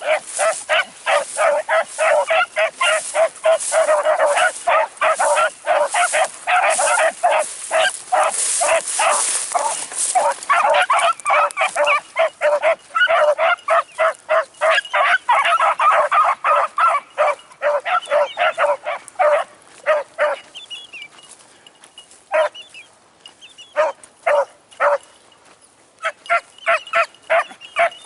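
A pack of beagles giving tongue on a rabbit's scent trail: many overlapping bays and barks in quick succession, thinning to a few scattered barks about twenty seconds in.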